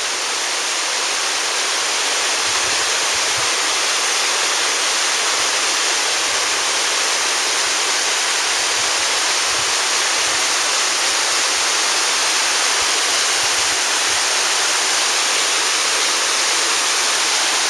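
Waterfall cascading over volcanic rock: a steady, even rush of falling water.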